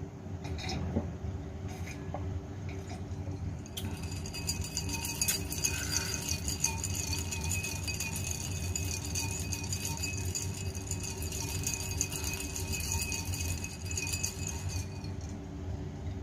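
Many small crackling clicks and light clinks, as of a glass of cold drink being handled, over a steady low hum; the clicking sets in about four seconds in and stops shortly before the end.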